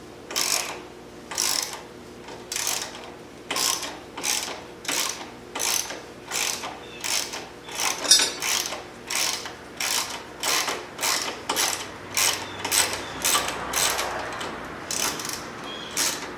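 Hand ratchet wrench working a bolt loose with repeated back-and-forth strokes, each stroke a short burst of pawl clicks, at first about one a second and quickening to about two a second. One sharper, louder click about halfway through.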